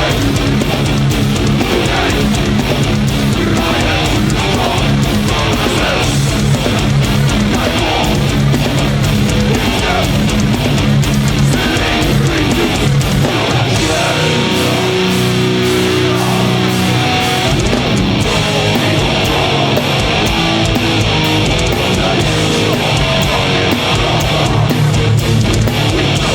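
Live heavy metal band playing an instrumental passage: distorted electric guitars and bass over fast drumming. The lowest end drops away for a few seconds midway before the full band comes back in.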